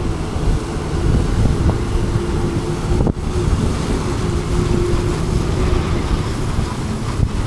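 Wind buffeting the action camera's microphone on a moving scooter, over a steady engine hum, with a brief dropout about three seconds in.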